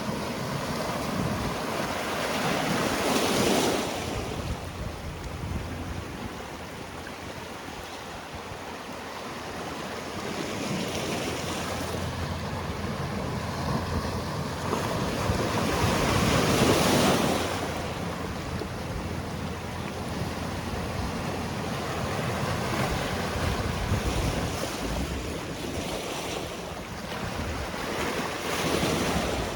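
Sea waves breaking on a rocky shore, a steady wash of surf with three louder surges, around three seconds in, midway and near the end. Some wind on the microphone.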